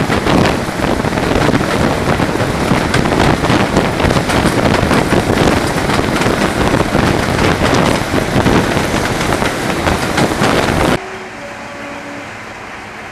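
Wind buffeting a microphone held out of the window of a moving diesel locomotive, over the train's running noise. About eleven seconds in the sound cuts off abruptly to a much quieter, steady rumble.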